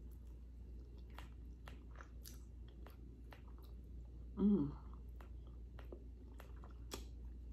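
Close-miked chewing of a mouthful of bread roll with a piece of steak in it, with soft wet mouth clicks and smacks scattered throughout. A brief voiced sound from the eater comes about four and a half seconds in.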